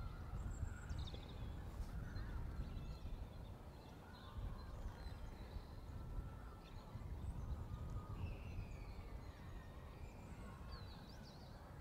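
Faint bird calls, short scattered chirps and whistles, over a steady low outdoor rumble.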